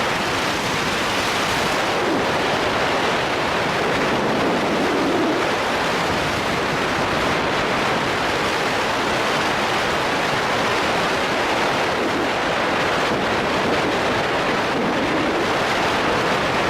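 Steady rushing road and tyre noise of a car driving along at an even pace.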